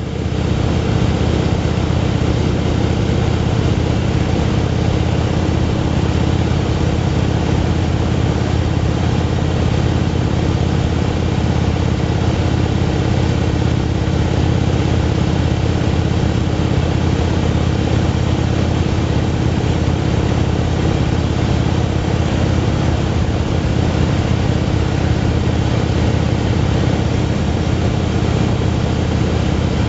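Motorcycle engine running at a steady cruising speed, its pitch holding even with no shifting or revving.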